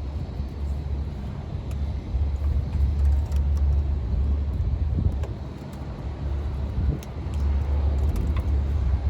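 Wind buffeting the microphone: a low rumble that swells and eases in gusts, with a few faint clicks over it.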